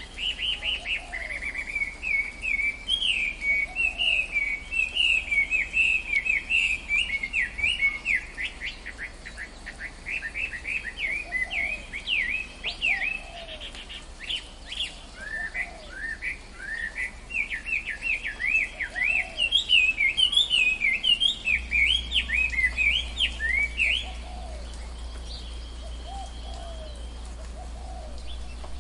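Tropical forest birds chirping in fast, busy runs of short high notes, stopping about four seconds before the end and leaving a steady low background hum.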